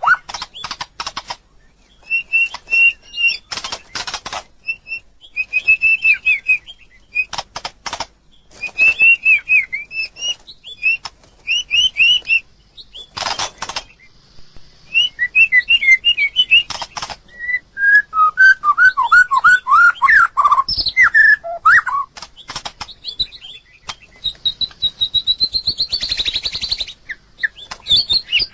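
White-rumped shama singing: a long run of varied whistled phrases mixed with sharp clicks and harsh rattling notes, including a quick series of lower falling notes past the middle.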